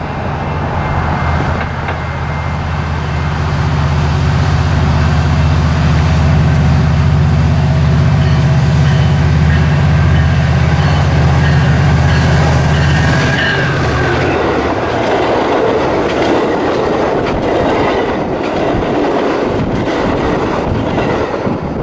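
Metra diesel locomotive approaching with a loud, steady low engine drone, which drops away about 14 seconds in. Then come the rolling wheels of stainless steel bilevel passenger cars passing close by.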